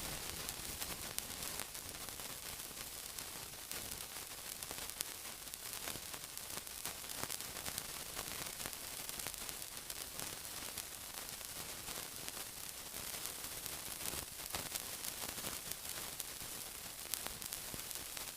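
Steady sizzling, a dense hiss peppered with fine crackles throughout.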